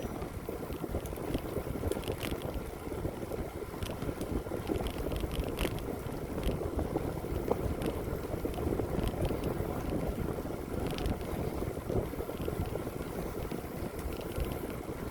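A bicycle being ridden: a steady rush of wind and tyre noise on the path, with scattered faint clicks and rattles.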